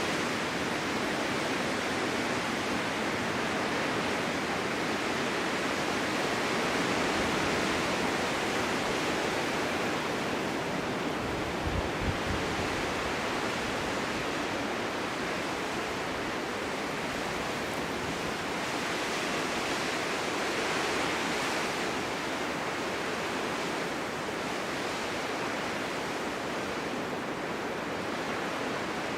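Winter wind blowing steadily, a continuous rushing noise that swells and eases slightly, with a brief low thump about twelve seconds in.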